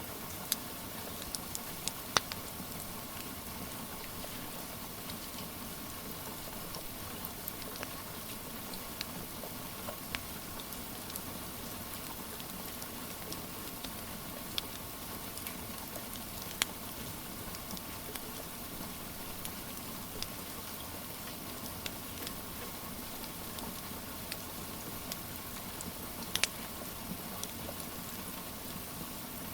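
Steady rain hiss with scattered sharp crackles and pops of a wood fire, a few louder pops standing out now and then.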